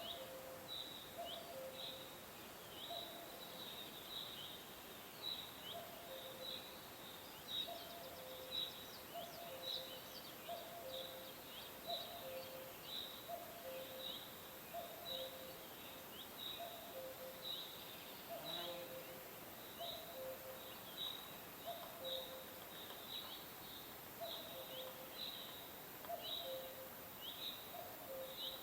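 Birds chirping: a steady series of short, high, falling chirps, about one or two a second, with a lower two-note call repeating underneath, over a faint steady hiss.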